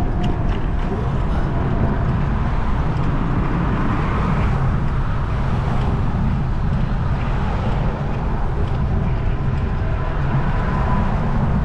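Steady road traffic noise under a continuous low rumble of wind buffeting the microphone of a moving bicycle.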